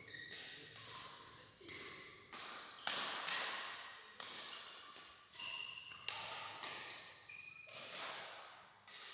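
Badminton rally: rackets striking a shuttlecock about a dozen times at an uneven pace, each sharp hit echoing in a hall, with a few brief high squeaks from court shoes.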